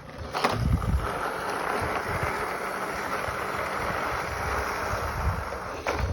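Radio-controlled off-road toy truck driving: a steady rushing noise with low rumbling from wind on the microphone, and a sharp knock about half a second in and again near the end.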